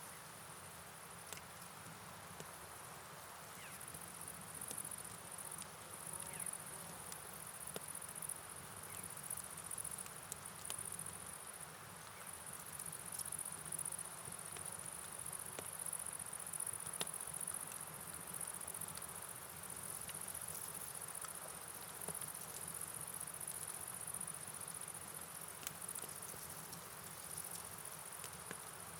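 A steady high chorus of crickets over a soft, even hiss of rain and flowing river water, with scattered light ticks throughout.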